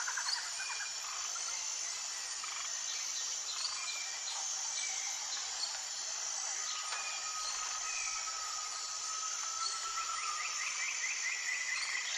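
Forest ambience: a steady high insect drone with birds calling over it, including a long even whistle in the middle and a fast trill near the end.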